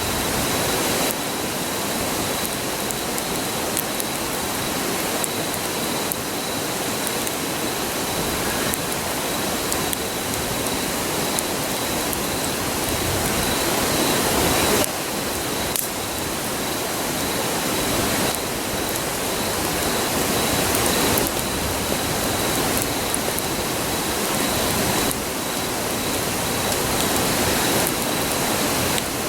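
River rushing with a steady, even roar.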